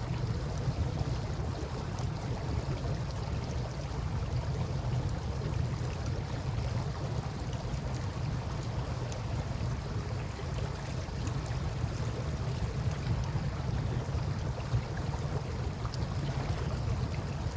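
Campfire crackling with scattered small pops over the steady flow and lapping of river water, with a constant low rumble underneath.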